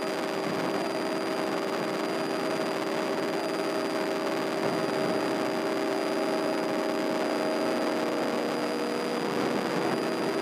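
Light airplane's piston engine droning steadily in flight, heard as an even cabin hum with hiss.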